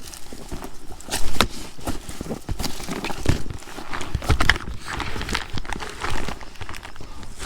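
Footsteps of a person walking, an irregular run of steps about one or two a second.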